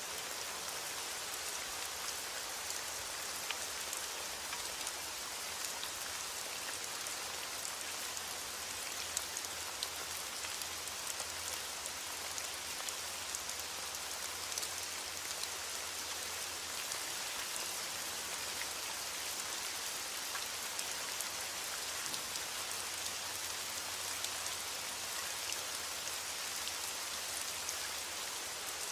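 Heavy rain falling steadily against a window, an even hiss with scattered small ticks.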